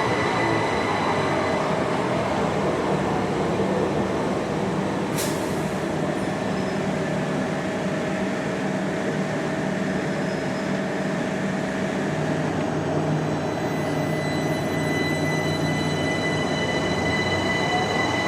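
Southeastern Electrostar electric multiple-unit train running through the station: a steady rumble of wheels on rail with high, steady whining tones. There is one sharp click about five seconds in.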